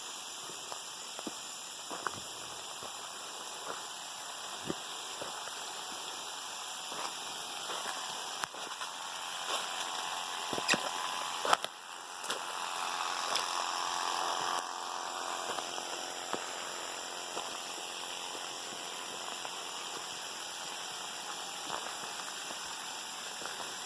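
Irrigation water spraying over the garden with a steady hiss, with a few light ticks and a louder stretch about halfway through.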